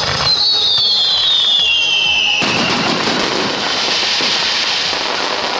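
Aerial fireworks: a whistle falling steadily in pitch for about two seconds, then, about halfway through, a sudden loud burst into a dense crackle of sparks.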